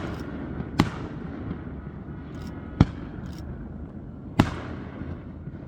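Three sharp firework bangs, each a second or two apart, the last one trailing off in an echo, over steady background noise.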